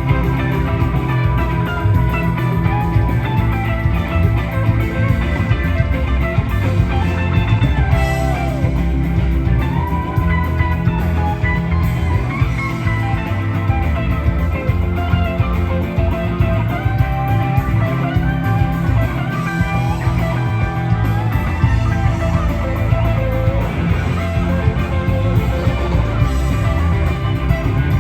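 Live rock band playing an instrumental jam: an electric guitar lead with bending, sliding notes over the full band.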